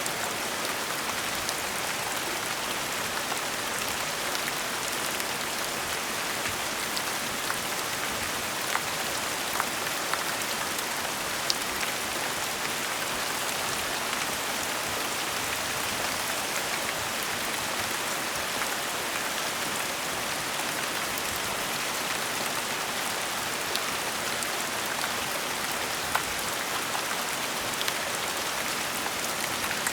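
Gentle steady rain: an even hiss of falling rain with scattered sharper drops ticking on a surface now and then.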